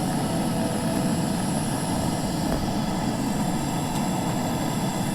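Boat's outboard motor running steadily while under way: a constant low drone with no change in speed.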